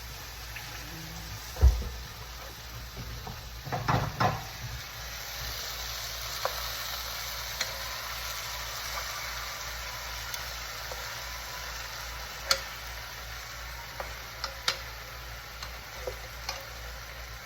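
Chicken breasts sizzling steadily as they fry in a pan, with sharp clicks and knocks against the pan as the pieces are turned over; the loudest knock comes just under two seconds in, with a cluster around four seconds and scattered clicks after.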